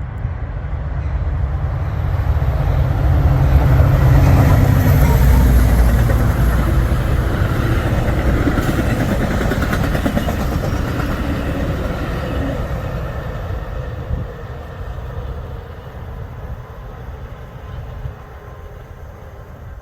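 A train passing close by: a loud rumble of wheels and engine that builds to its loudest about five seconds in and then slowly fades.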